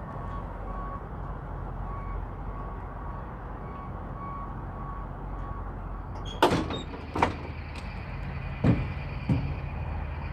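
Semi truck idling with a steady low rumble, under a short high beep repeating about every half second that stops about six seconds in. Then several sharp knocks and clunks, the loudest about six and a half seconds in.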